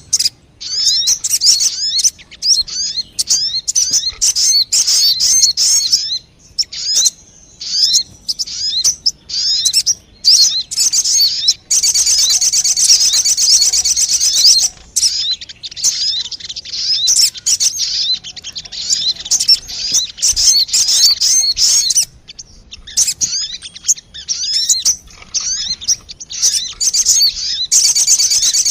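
Lure recording of sogon bird calls: fast, high twittering chirps in quick runs with short pauses, swelling into a dense continuous trill about twelve seconds in and again near the end.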